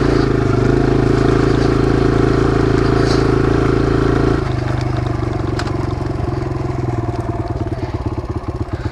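Kawasaki KLX140's single-cylinder four-stroke engine running at steady revs. About four and a half seconds in, the revs drop off to a low, pulsing putter near idle.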